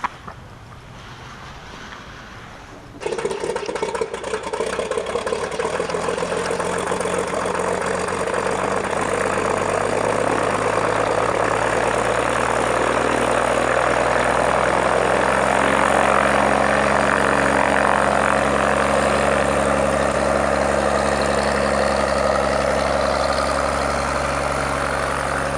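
Cessna 172SP's 180 hp four-cylinder piston engine and propeller running at low power. It comes in suddenly about three seconds in after a quiet stretch, then settles into a steady drone that grows slightly fuller.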